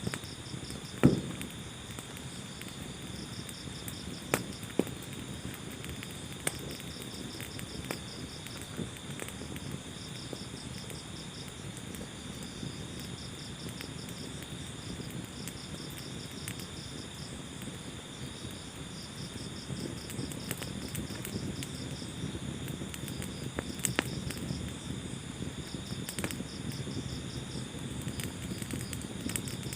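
Wood fire burning in a fireplace: a steady low rumble with scattered sharp crackles and pops, the loudest about a second in. A high, steadily pulsing insect-like chirp runs alongside.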